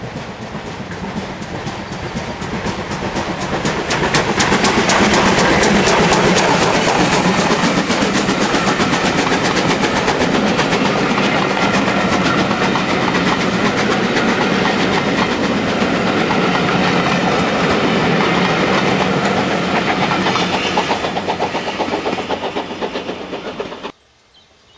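Steam-hauled passenger train passing close by. It builds to its loudest about four seconds in, then a long rake of coaches rolls past with wheels clicking rapidly over the rail joints. It fades over the last few seconds and cuts off abruptly near the end.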